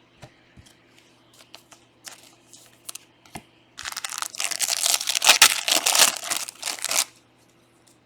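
A few light taps of cards being handled, then about three seconds of loud crinkling and tearing from a foil trading-card pack wrapper being ripped open and crumpled.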